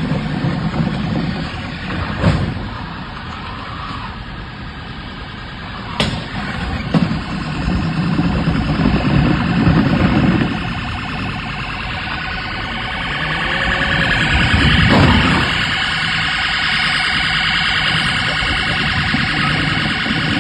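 An electronic siren or alarm sounding continuously over vehicle noise, louder in the second half, with a few sharp knocks early on.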